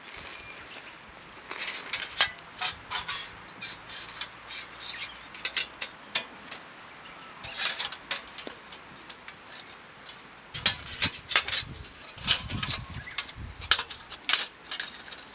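Irregular light metallic clinks and clatter of camping gear being handled, with a few duller thumps about two-thirds of the way through.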